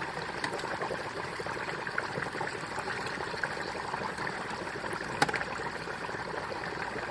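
Hot oil in a Butterball electric turkey fryer bubbling and crackling steadily around a whole turkey that has just been submerged. There is one sharp click about five seconds in.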